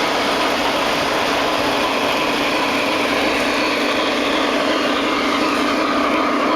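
S gauge model train running on a layout, its electric motor and wheels on the track making a steady mechanical whir and rumble.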